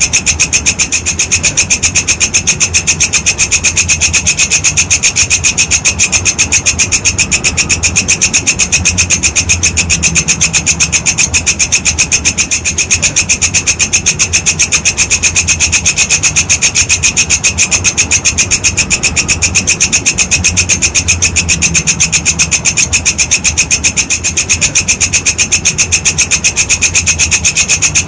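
Walang kecek insect stridulating: a loud, unbroken high rasping trill made of fast, evenly spaced pulses.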